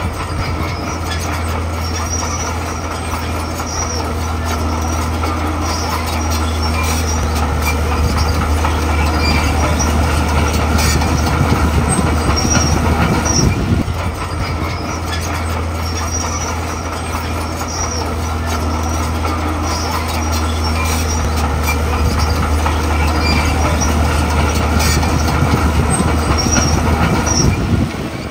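Crawler bulldozer working: its diesel engine runs steadily under load while the steel tracks squeal and clank, with short high squeaks every second or so.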